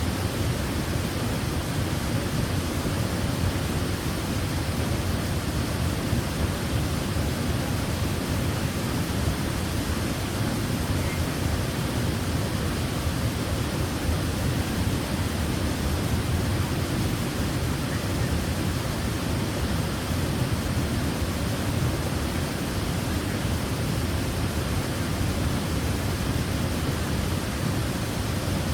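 Waterfall running steadily: a constant, even rush of falling water, heaviest in the low rumble, with no pauses or changes.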